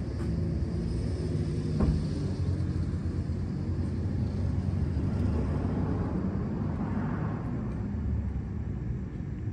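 Steady low outdoor rumble, with one sharp click about two seconds in.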